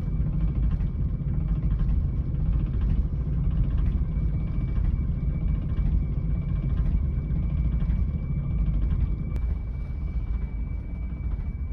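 Steady low rumble of a moving vehicle, with a faint constant high whine over it and a single sharp click about nine seconds in.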